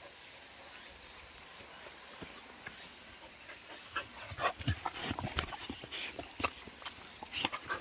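Jindo dogs moving about close to the microphone: a low, even background for about four seconds, then a quick run of short scuffs and clicks to the end.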